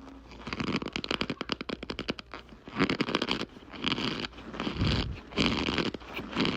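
Chunks of packed cornstarch squeezed and crumbled between fingers, squeaking and crunching: a fast run of crackles for about two seconds, then four or five separate crunching squeezes.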